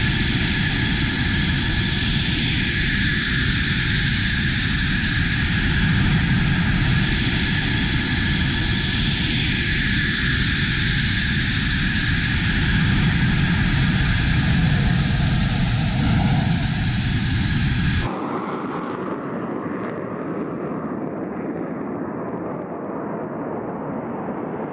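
F-16 Fighting Falcon's single turbofan engine at takeoff power: a loud, steady jet rush with slow swells. About 18 s in it cuts off abruptly to a quieter, duller rumble.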